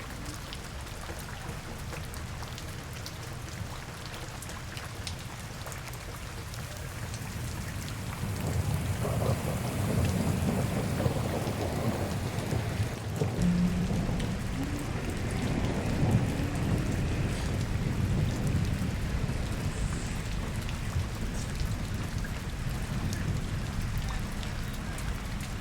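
Steady rain falling on the street. About a third of the way in, a deep rumble swells up, lasts about ten seconds, then fades back under the rain.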